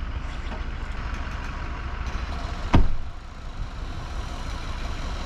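A truck running, a steady low rumble, with one sharp knock a little under three seconds in.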